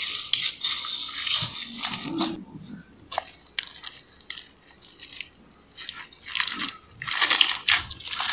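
Slime being squeezed and pressed by hand, crackling and popping. A dense run of crackles for the first two seconds gives way to a few separate clicks, then two more crackling bursts come near the end.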